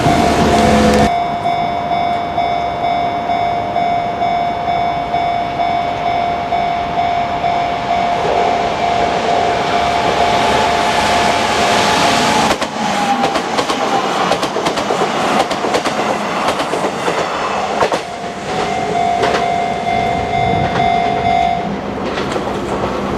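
Kintetsu electric train running through a level crossing, wheels clattering over the rails with a steady rumble. The crossing's warning bell rings as a steady high tone that stops about halfway through and comes back briefly near the end.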